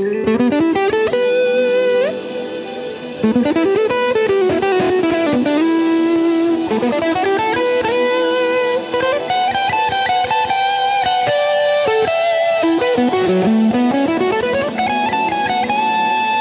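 Electric guitar playing a slow lead melody through the Poly Verbs impulse-response reverb pedal, with sustained notes joined by smooth pitch slides and a reverb tail under them.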